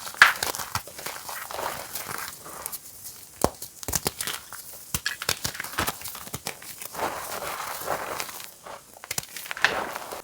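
Reformed gym chalk being crushed, crunching and crackling as it crumbles, with many sharp cracks.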